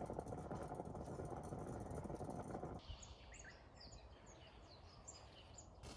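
A low, steady rumbling noise that cuts off suddenly about three seconds in, followed by small birds chirping in short, rapid calls over a quiet outdoor background.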